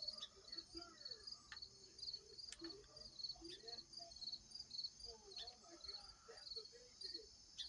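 Crickets chirping faintly in a regular, evenly spaced rhythm of short high chirps about twice a second, over a steady high insect drone.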